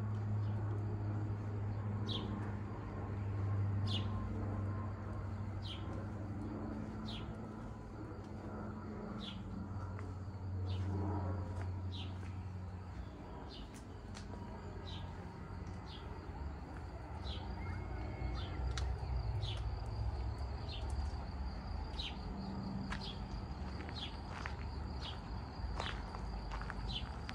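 A small bird repeating a short, high chirp about once a second. Under it runs a low, steady hum that fades out about halfway through.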